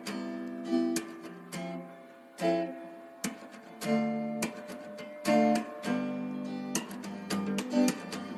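Background acoustic guitar music: plucked and strummed chords, each ringing out after a sharp attack.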